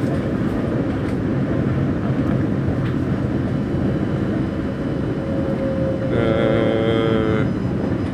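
Regional electric train running at speed, heard from inside the carriage: a steady low rumble of the train and its wheels. About six seconds in, a steady pitched tone sounds over it for about a second and a half.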